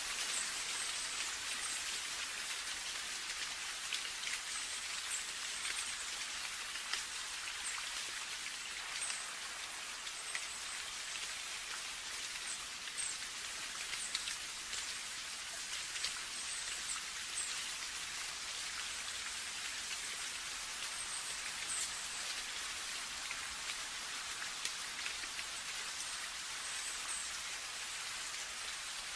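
Steady rainfall: a continuous hiss of rain with scattered individual drops ticking on a surface.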